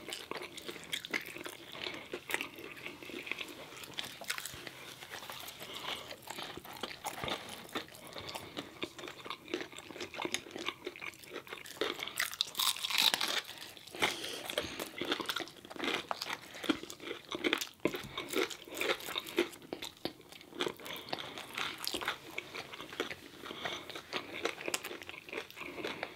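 Close-miked chewing and crunching of fried food and crinkle-cut fries, with wet mouth sounds and a steady run of small crisp crunches. The crunching is busiest and loudest a little before the middle.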